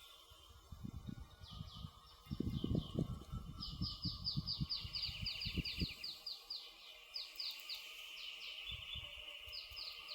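A small songbird singing fast trills of short falling notes, about six a second, over a campfire's irregular low crackling and popping. The crackling is busiest in the first half.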